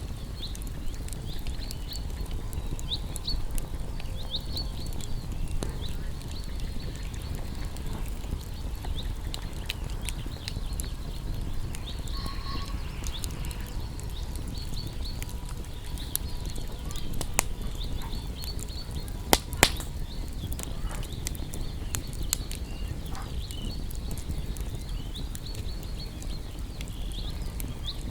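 Wood campfire burning: a low rumble of flames under frequent sharp crackles, with two louder pops a little before twenty seconds in.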